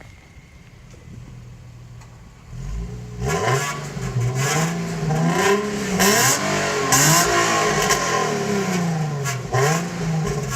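2008 Infiniti G37S's 3.7-litre V6 on its stock exhaust, idling, then revved repeatedly from about three seconds in, the pitch rising and falling with each rev and loudest in the middle. The exhaust note sounds rattly.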